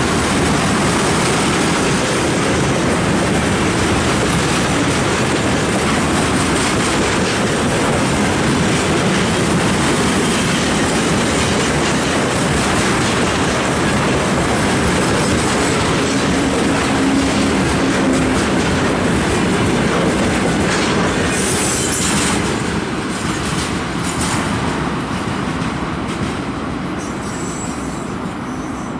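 Freight train of tank cars rolling past: a steady clatter of wheels over the rail joints with some wheel squeal. A brief high squeal comes about three-quarters of the way through, and the sound gets a little quieter near the end.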